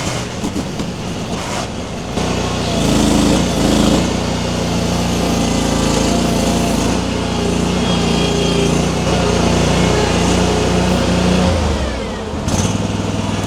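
Baumalight mini skid steer's small engine running under load as its grapple wrenches at a tree root ball. The engine note rises about two seconds in, holds, and falls back near the end.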